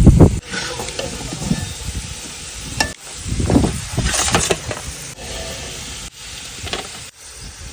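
Potato chips sizzling as they fry in hot oil, with stirring and several low thumps, the loudest right at the start and another about three and a half seconds in.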